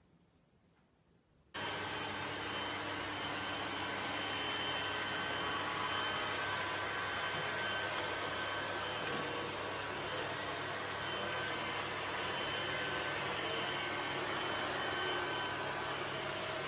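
A steady whirring machine noise with a high whine on top, starting suddenly about a second and a half in and holding unchanged.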